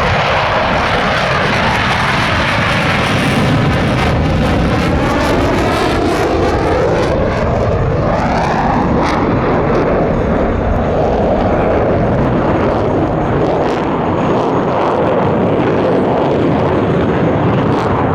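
Airplane flying low past overhead: a loud, steady rush of engine noise with a sweeping, phasing whoosh as it goes by.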